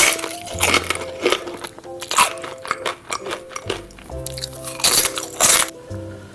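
Person biting into crunchy food close to the microphone, with several loud sharp crunches, the loudest pair near the end, over soft background music.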